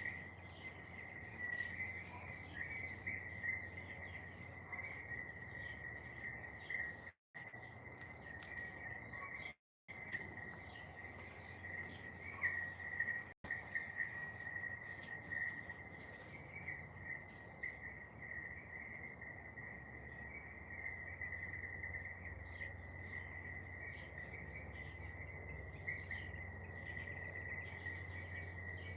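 Garden ambience: a steady high-pitched insect drone with scattered short bird chirps over it and a low steady hum beneath. The sound cuts out to silence briefly three times in the first half.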